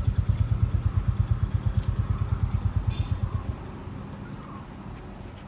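Royal Enfield Himalayan motorcycle's single-cylinder engine idling with a steady, rapid beat. The beat drops sharply in level about three and a half seconds in.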